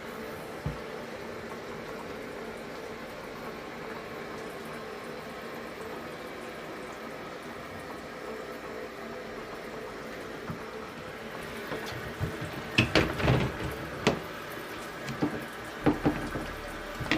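Water running steadily from an inlet hose into the plastic wash tub of a twin-tub portable washing machine, filling it. In the last five seconds several sharp knocks and clatters sound over the running water.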